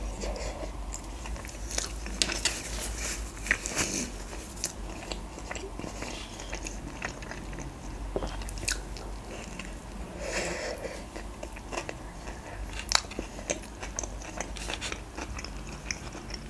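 Close-up biting and chewing of a tortilla-wrapped KFC Box Master: a bite at the start, then chewing with crisp, crunchy clicks scattered through, thickest about two to four seconds in and with a sharp one near thirteen seconds.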